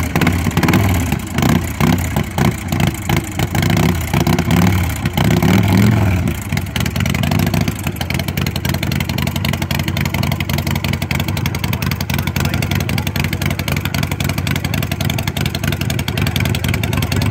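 Custom chopper motorcycle's engine, freshly started, revved in a series of throttle blips for about the first six seconds, then settling into a steady idle.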